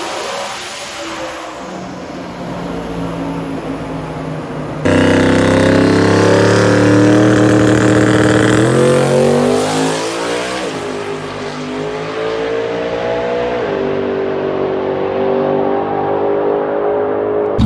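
Turbocharged Coyote V8 of a drag-race Ford Mustang, first running on a chassis dyno, then, after a sudden jump in loudness, at full throttle on a drag-strip pass. The pitch climbs and drops back about three times as the 6R80 automatic upshifts, and the sound dulls as the car runs away down the track.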